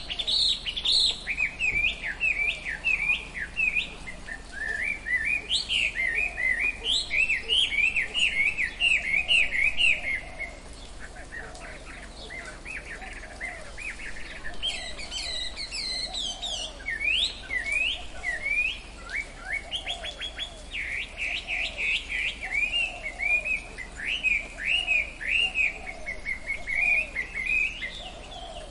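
Tropical forest birds chirping: a dense run of rapid, quick up-and-down chirps that goes quieter for a few seconds about a third of the way through, over a fainter, lower call repeating underneath.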